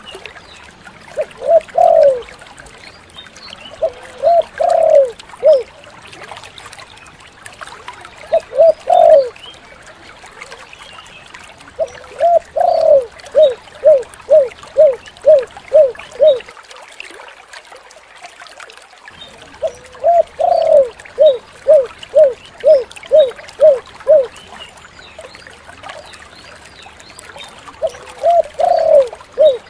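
Spotted dove (tekukur) cooing in repeated phrases. Short groups of two or three low coos alternate with longer runs of about eight quick coos at roughly two a second. A steady faint hiss lies beneath.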